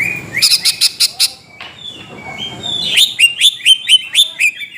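Greater green leafbird (cucak ijo) singing: a quick run of about six sharp clicking notes in the first second, a short pause, then a fast string of short down-slurred whistles from about three seconds in.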